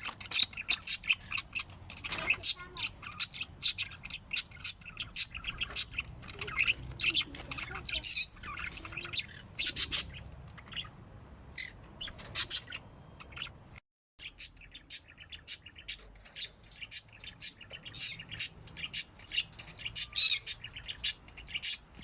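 Pet cockatiels giving a dense stream of short chirps and squawks, then, after a cut about 14 seconds in, budgerigars chirping and twittering.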